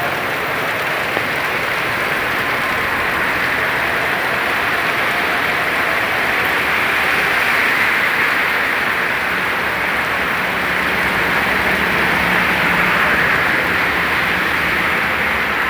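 Heavy rain with strong wind: a steady, dense rushing noise that swells around the middle and again near the end.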